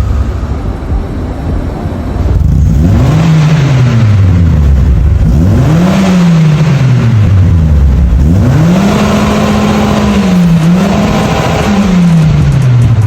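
Eighth-generation Mitsubishi Galant engine revved through an aftermarket HKS exhaust: low running for the first couple of seconds, then four rises and falls in engine pitch, the third held high for a second or two before dropping back.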